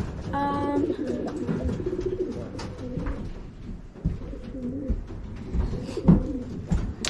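Racing pigeons cooing repeatedly, low bending calls one after another.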